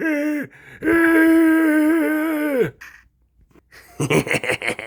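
A drawn-out wailing vocal cry, held for about two seconds and falling away at the end, then a rough, rattling voice sound with a falling pitch near the end.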